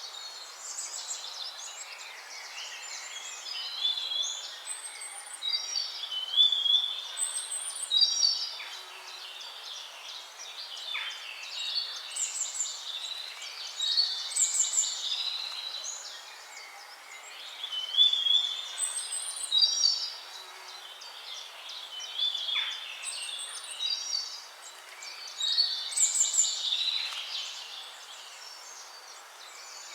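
A chorus of songbirds singing over one another: repeated high chirping and trilling phrases that rise and fall in loudness every few seconds over a faint steady hiss.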